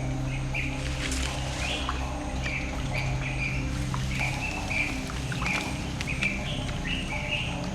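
Birds in tropical forest giving short, repeated chirping calls, about two a second, over a steady low hum.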